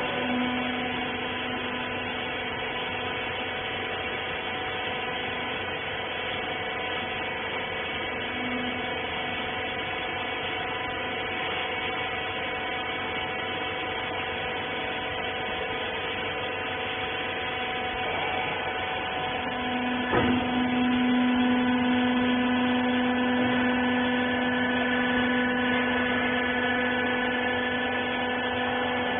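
Hydraulic rag baler's pump motor running with a steady, even hum. About twenty seconds in there is a click, and the hum then grows louder.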